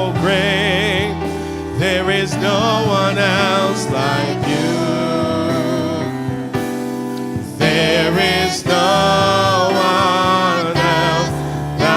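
Gospel worship song with a praise team singing over keyboard and bass accompaniment, the voices dropping back for a few seconds in the middle before coming in strongly again.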